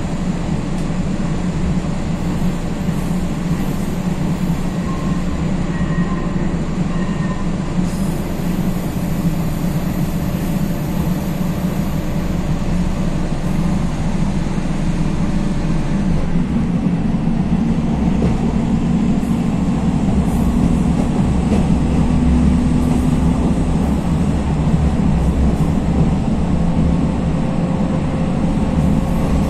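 Cabin noise inside a Regionova diesel railcar under way: a steady low rumble of engine and running gear. About halfway through, a hum steps up in pitch and the noise grows a little louder.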